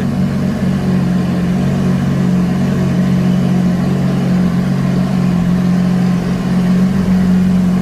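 Car engine idling steadily with a constant low exhaust hum and no revving.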